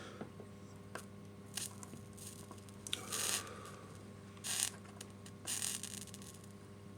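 Soldering iron run along fluxed rails, the liquid flux sizzling in several short, uneven hisses over a steady low electrical hum.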